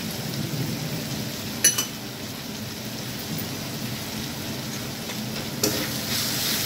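Onion-tomato masala sizzling in oil in a steel kadhai as ground spices are tipped in, with a sharp clink about two seconds in. Near the end a metal spatula starts stirring through the pan and the sizzle grows louder.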